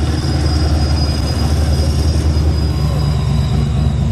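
A vehicle engine running with a loud, steady low rumble.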